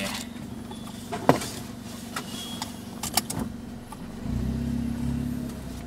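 Car engine idling with a few sharp clicks, then running louder from about four seconds in as the car pulls forward from a standstill.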